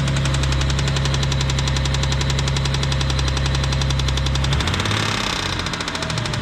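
1992 Mitsubishi 3000GT VR4's twin-turbo V6 idling with a loud, fast, even ticking: the notorious lifter tick, a sign the hydraulic lifters need replacing, heard most from the back bank. About four and a half seconds in, the engine's note shifts and turns uneven.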